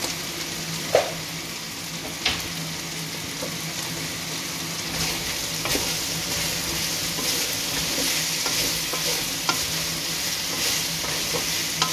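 Curry ingredients with ginger frying and sizzling in a wok, stirred with a wooden spatula. There are a couple of sharp knocks in the first few seconds, and the sizzle grows a little louder about halfway through.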